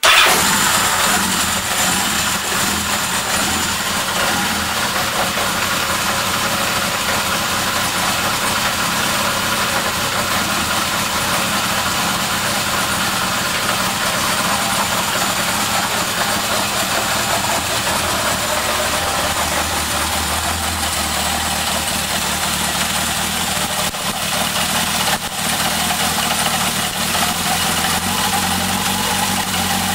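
Yamaha XS1100's air-cooled inline four-cylinder engine, fed by homemade MegaSquirt fuel injection, comes in suddenly and runs steadily at idle.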